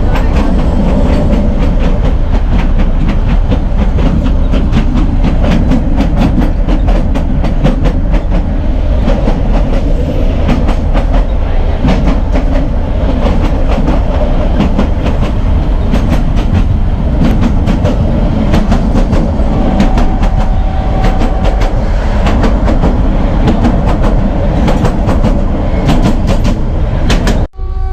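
Narrow gauge train coaches running along the track: a steady rumble of wheels with a fast, irregular clickety-clack over the rail joints. The sound cuts out abruptly for a split second near the end.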